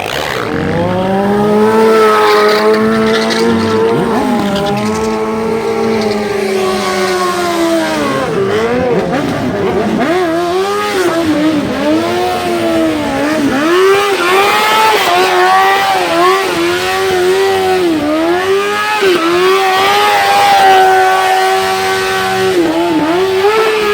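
Motorcycle engine being revved up and down over and over, its pitch rising and falling. The swells are long at first and come about once a second from about ten seconds in.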